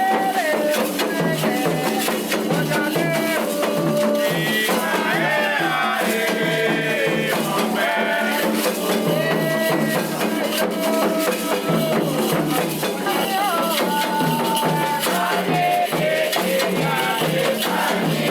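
Candomblé ritual music: voices singing a melody over steadily shaken rattles and percussion.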